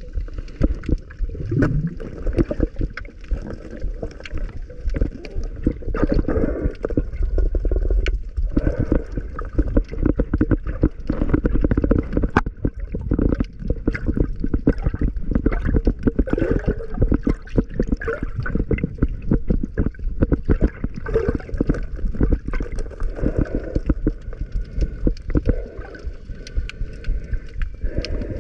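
Seawater churning and gurgling around the camera during a dive, muffled, with dense crackling throughout.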